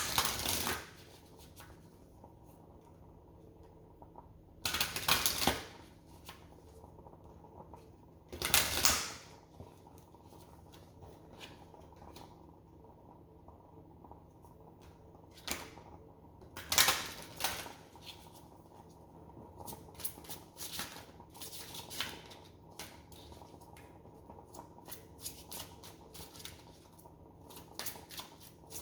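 A deck of oracle cards being shuffled and handled, with short bursts of cards rustling and sliding against each other at intervals, then a run of small light taps and rustles as cards are flicked and laid down.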